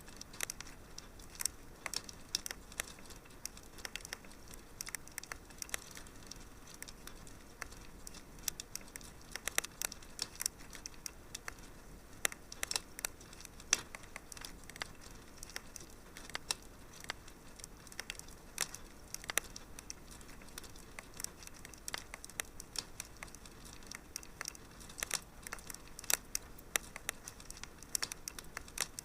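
Fire crackling in a fireplace: irregular sharp pops and snaps, several a second, over a soft steady hiss.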